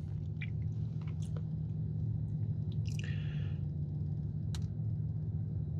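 Someone biting into and chewing a soft Mallow sandwich cookie, with a few faint clicks and squishes. A steady low hum runs underneath and is the loudest thing.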